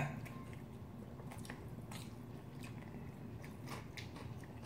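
Faint close-up chewing of spicy cold noodles (bibim naengmyeon), with a scattering of small wet mouth clicks.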